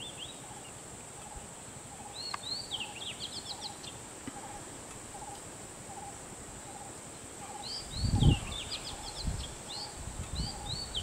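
Birds calling in fast runs of rising and falling chirps, twice, over a steady high whine and a faint note repeated about twice a second. A few loud low thuds come in over the last few seconds.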